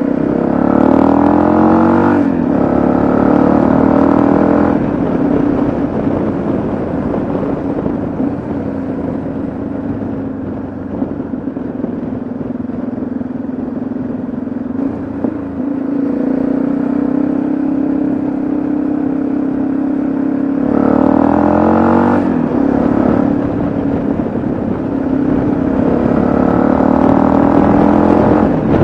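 Motorcycle engine, the single-cylinder of a Yamaha XT660Z Ténéré, pulling up through the gears. The revs rise twice with a break for a gear change, then settle into a steadier cruise with wind noise. Later come two more rising pulls split by another gear change.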